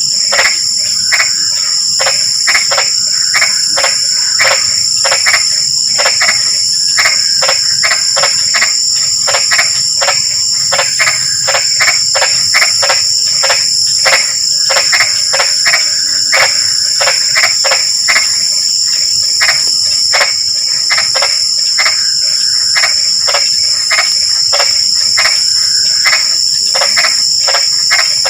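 A chorus of frogs giving short croaking calls in quick, uneven succession, over a steady high-pitched trilling drone of insects.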